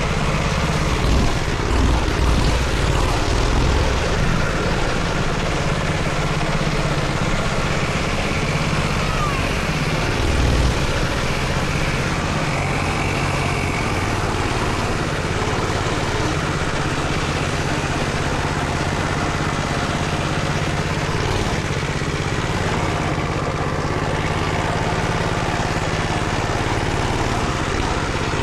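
Small motorcycle engine running steadily, a little louder for a few seconds near the start and again briefly about ten seconds in.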